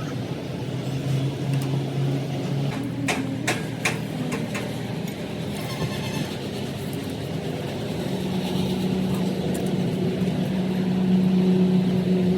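An engine running steadily, its pitch and level rising about eight seconds in, with a few sharp metallic knocks around three seconds in.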